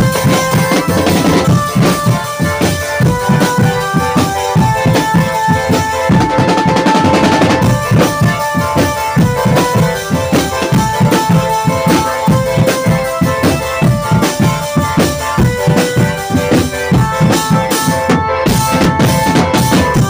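A drum band playing: dense, fast drum and snare hits with bass drum beneath and a held melody line stepping from note to note over them.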